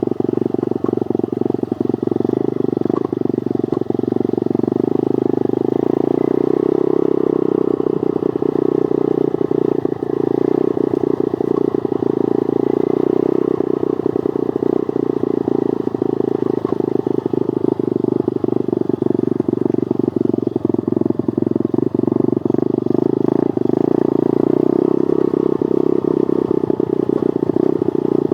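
Pit bike engine running at a fairly steady pace while under way.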